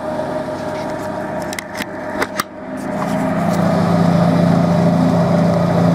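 Wood lathe running with a steady motor hum. A few sharp clicks come about two seconds in, and about a second later the running grows louder and fuller and holds there.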